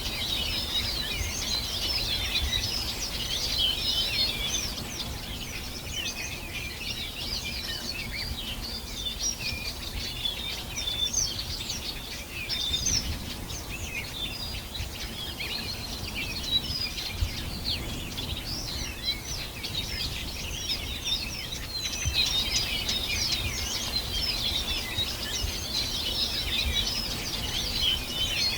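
Many small birds singing and chirping at once in a dense, continuous chorus of quick high trills and tweets, over a faint low rumble of background noise.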